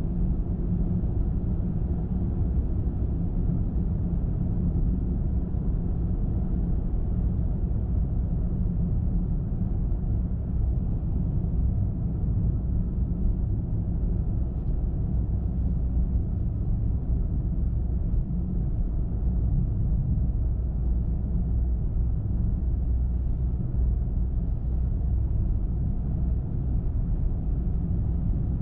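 Steady low rumble of a car driving at a constant pace: tyre and road noise with the engine underneath, even throughout.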